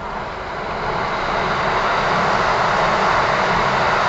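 Train noise heard inside a Kintetsu 1000 series carriage standing at a station: a steady rushing rumble that swells over the first second or two, then holds loud.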